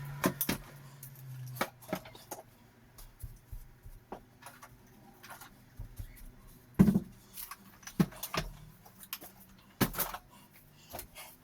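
Irregular knocks, clicks and rattles of hard objects being handled and set down, with the heaviest knocks about seven, eight and ten seconds in, and a low hum in the first second or two.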